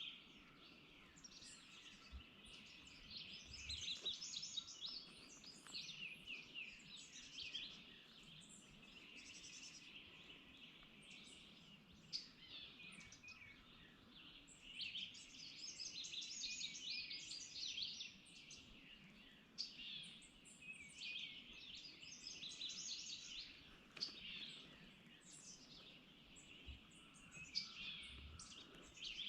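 Many songbirds singing and chirping at once, faint, over a low, even background noise.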